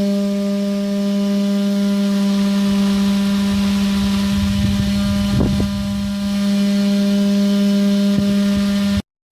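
Small electric motor spinning the fan of a miniature wheat-cleaning machine, a steady humming whine, with a brief rattle about five seconds in. The sound cuts off suddenly near the end.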